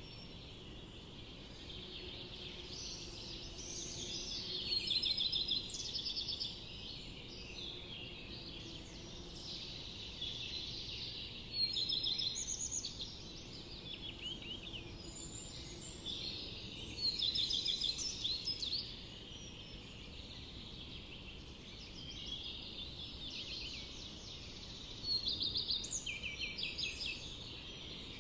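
Forest songbirds singing, with phrases of quick repeated notes coming every few seconds, over a steady faint background hiss.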